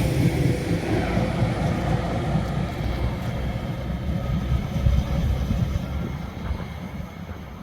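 Train running on the line, a low rumble that gradually dies away.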